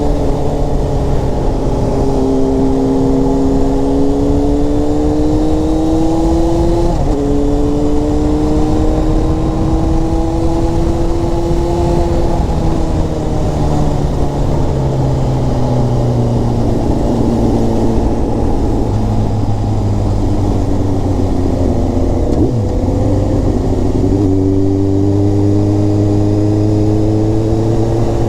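Inline-four sportbike engine pulling hard under heavy wind rush: the pitch climbs, breaks and climbs again at an upshift about seven seconds in, then sinks as the bike rolls off, with another shift a few seconds before the end.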